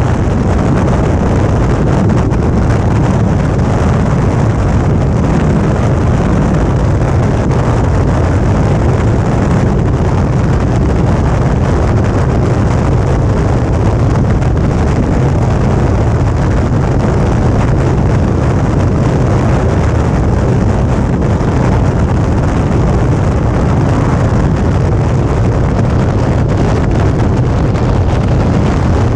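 Suzuki V-Strom 650's V-twin engine running at a steady cruising speed, with wind rushing over the camera microphone. The sound holds steady, with no clear changes in engine speed.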